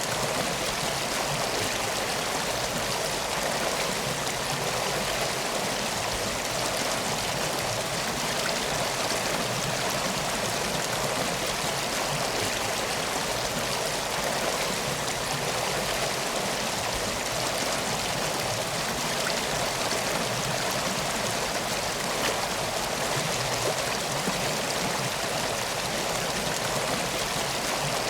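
Flowing water: a steady, even rush with no change in level.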